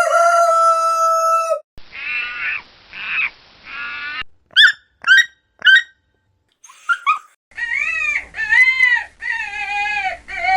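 A string of different animal calls cut one after another: one long held call, three harsh calls, three short sharp chirps, then a quick run of rising-and-falling calls.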